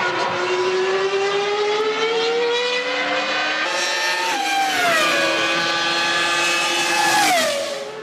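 1998 Formula One car's V10 engine at high revs: the pitch climbs steadily through a gear, then drops sharply twice, about four and a half and seven and a half seconds in, as the car shifts down.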